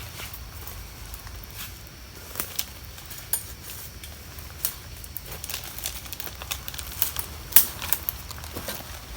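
Wood campfire crackling, with irregular sharp pops and snaps, the loudest about seven and a half seconds in.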